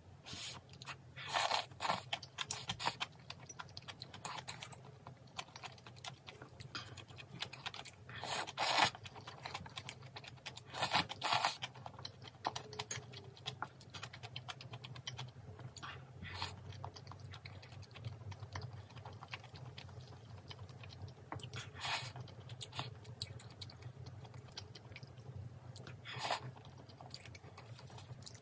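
A person eating close to the microphone: steady chewing and crunching, with several louder spells of crunching.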